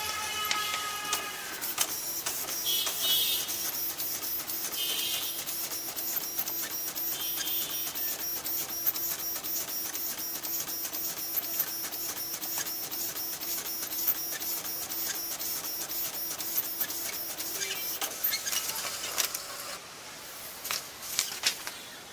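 Epson dot matrix printer printing: the print head's rapid pin clicking and the carriage running with a steady hum for about eighteen seconds, then stopping, with a few clicks after.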